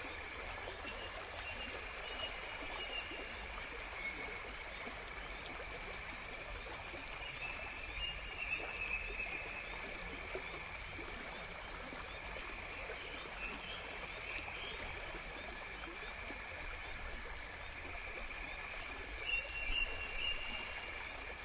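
Natural outdoor ambience of insects calling: several steady, high-pitched layers of chirping and buzzing, with a fast pulsed trill from about six to nine seconds in, over a soft rushing background.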